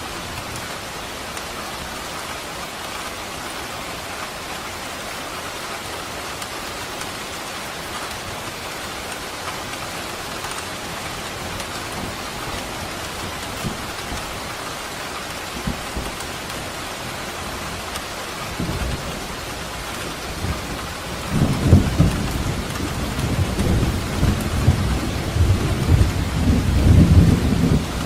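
Steady rain falling, with a long, low roll of thunder building about two-thirds of the way through and loudest near the end.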